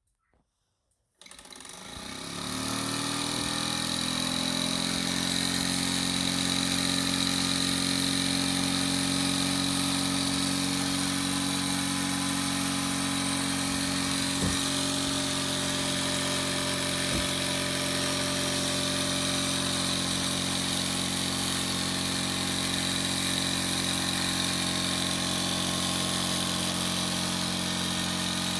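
Mamod TE1A model steam traction engine running stationary on live steam. It is a steady, fast, even engine beat over a hiss of steam. It starts about a second in and settles to a steady run within two seconds, with two faint clicks about halfway through.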